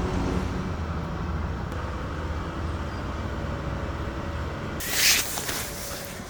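Steady low rumble of vehicle traffic, with a short loud hiss about five seconds in.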